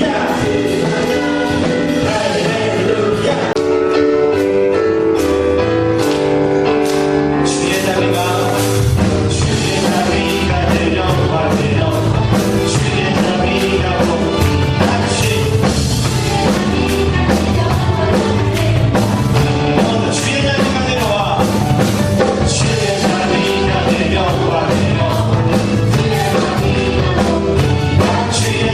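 Praise band music with singing: a worship song played on band instruments with a steady drum beat while voices sing along.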